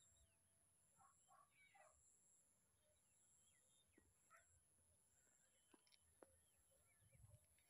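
Near silence, with a few brief, faint bird calls and a couple of faint clicks.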